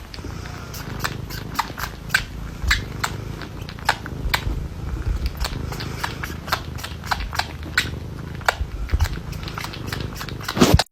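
An animal chewing and crunching on food, with sharp irregular crunches a few times a second over a low steady rumble.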